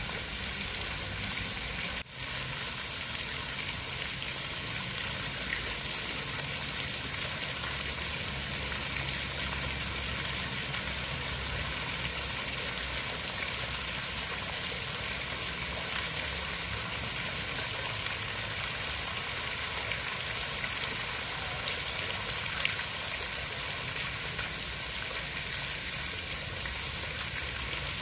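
Steady, even hiss of water, as of rain or a running stream, with a brief dropout about two seconds in.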